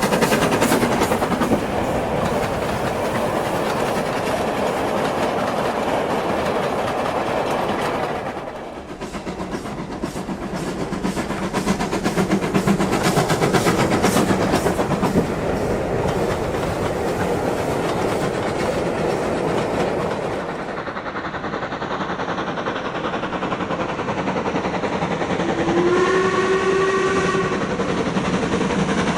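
Model steam train running on OO gauge track, with a steady rolling rumble and rapid rhythmic clicking of wheels over rail joints. A short steam-whistle sound with several tones sounds about 26 seconds in.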